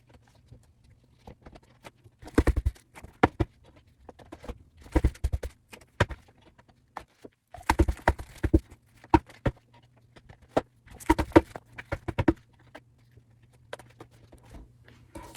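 Desk hole punch clunking through batches of printed paper, with sheets being handled and knocked on the desk: groups of sharp knocks every second or two.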